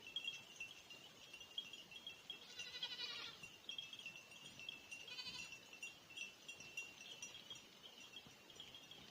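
Goat bleating from a distance, twice: one call about two and a half seconds in, a shorter one about five seconds in. Under it runs a steady high-pitched insect drone.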